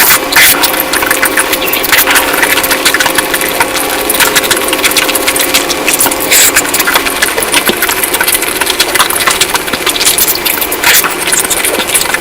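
Close-miked eating sounds: a person chewing and lip-smacking through a mouthful of curry, with a dense run of wet clicks and crackles.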